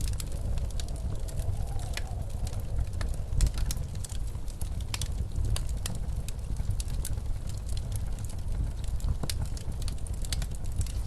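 Wood fire in a fireplace crackling, with irregular sharp pops and snaps, over the steady low rumble of blizzard wind. A faint wavering wind howl rises and falls in the first couple of seconds.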